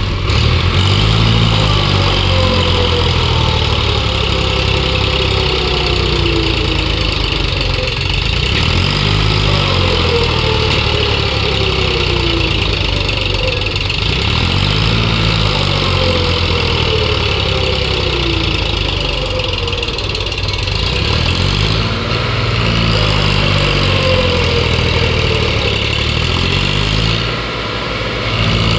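Heavy diesel engine running steadily, its note swelling and dropping back every five to six seconds as the load comes and goes, with a falling whine higher up at each cycle.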